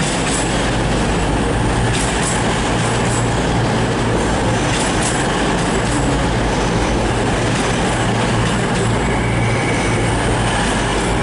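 A CrossCountry Class 220 Voyager diesel multiple unit arriving at the platform, its underfloor diesel engines running with a steady low hum over continuous wheel and rail noise. A few short clicks come from the wheels over the track.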